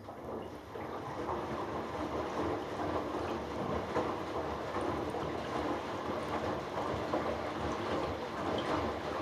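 Hoover Dynamic Next front-loading washing machine drum starting to turn and then tumbling a wet load of darks during the final rinse, an uneven churning rumble.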